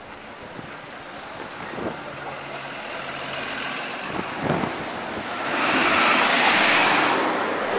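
Street traffic noise with a large vehicle passing: its hiss swells loudly about five and a half seconds in and eases off near the end.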